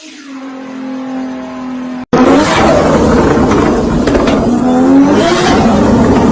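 Tuned performance car engine held at a steady rpm. After an abrupt cut about two seconds in, a louder engine revs against a two-step launch limiter, with rapid sharp pops and bangs from the exhaust.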